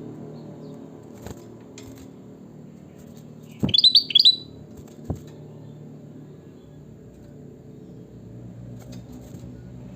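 A kutilang batik (bulbul) gives one short burst of several quick, bright chirping notes a little over a third of the way in. There are a couple of light clicks and a faint steady low hum in the background.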